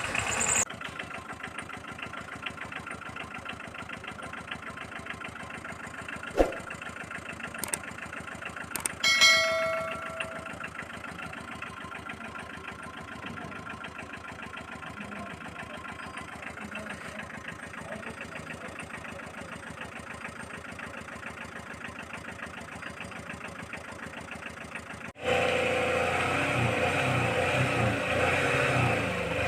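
Steady engine running sound with a fast, even pulse, with a sharp click about six seconds in and a short ringing tone about nine seconds in. Near the end a louder engine sound cuts in suddenly.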